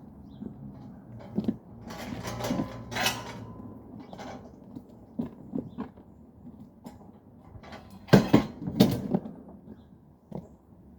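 Creaks, scrapes and scattered knocks from handling an old refrigerator, with a scraping stretch about two seconds in and a burst of the loudest knocks about eight seconds in.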